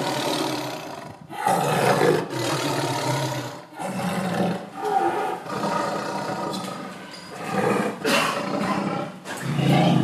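A big cat roaring over and over, with about one loud roar a second.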